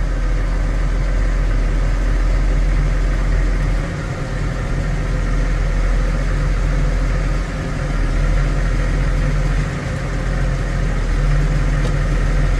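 New Holland tractor engine running steadily while the front-end loader is raised and lowered, with brief dips in the engine sound every few seconds.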